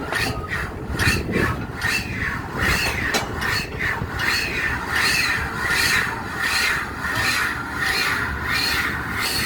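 A diesel pile-driving rig at work: a squeal repeating about three times every two seconds over a steady low rumble.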